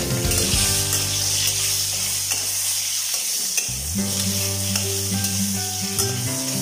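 Potato chunks sizzling steadily in hot oil in a steel kadai, with a metal spatula scraping and turning them in the pan.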